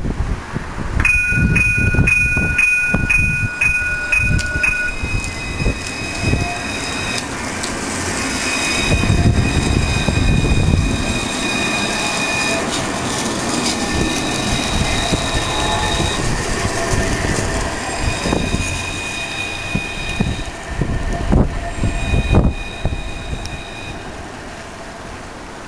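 Alstom Citadis tram running on its rails, its wheels squealing in steady high tones that come and go, over a low rumble.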